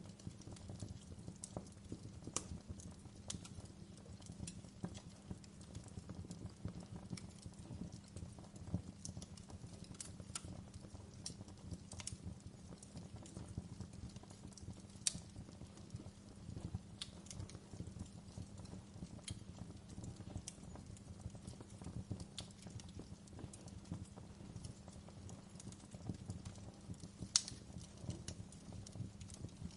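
Wood fire in a fireplace crackling: irregular sharp pops and snaps over a low steady rumble of the burning, with a few louder pops, one about halfway through and one near the end.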